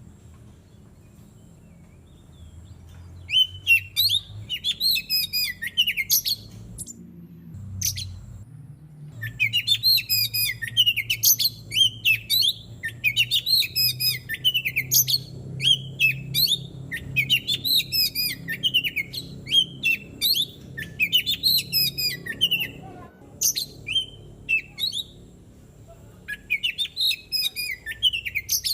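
Oriental magpie-robin (kacer) singing in repeated bursts of fast, varied high notes, with short pauses between phrases. A faint steady low hum lies underneath.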